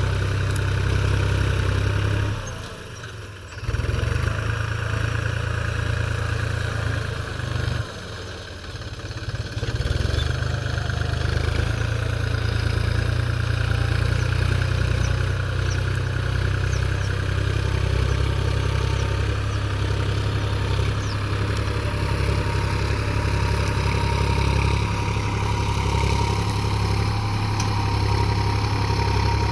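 New Holland 4710 tractor's diesel engine running steadily with a deep drone, dipping in loudness twice in the first ten seconds.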